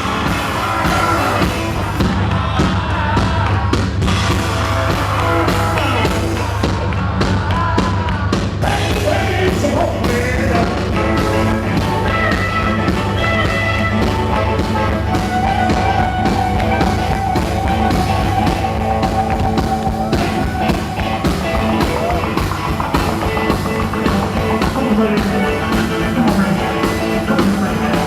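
A live band playing rock and roll music, with a steady beat and a held lead note partway through.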